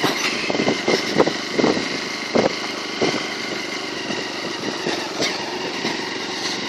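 Small motorcycle engine running steadily while riding, with a few short thumps in the first three seconds or so and another about five seconds in.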